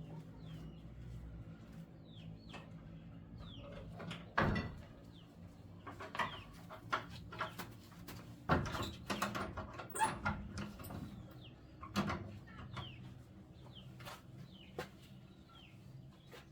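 Birds chirping in short, repeated calls, broken by a few sharp knocks and clatter about four seconds in and again through the middle.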